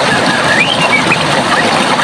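Running water rushing steadily, with small birds chirping over it in a string of quick high notes.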